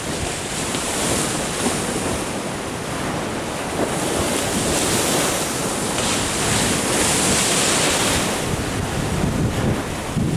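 Ocean surf washing in, its hiss swelling and easing through the middle, with wind gusting on the microphone as a low rumble.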